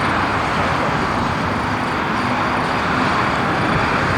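Steady jet aircraft engine noise, an even roar with no sudden changes.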